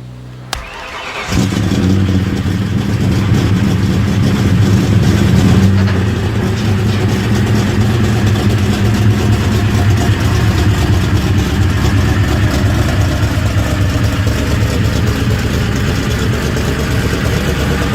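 Ford 4.6 L two-valve V8 of a 1999 Mustang GT running on a chassis dyno: after a click, the engine comes up loud about a second in and holds a steady, fairly even note.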